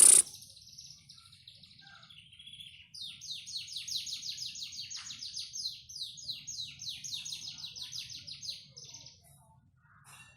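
Pied 'panda' domestic canary singing: a fast high trill, then a long run of rapid downward-sweeping notes repeated about six times a second, stopping about a second before the end. A short loud hiss sounds at the very start.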